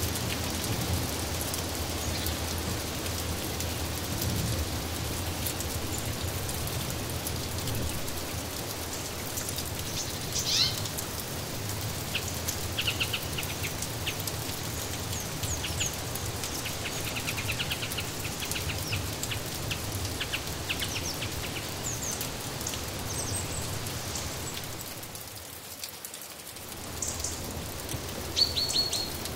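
Steady rain falling, with small birds chirping in short, high calls now and then from about a third of the way in. The rain drops away briefly for about a second near the end, then returns.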